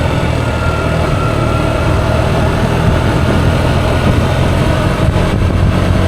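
A vehicle engine running steadily with a low hum, no clear revving.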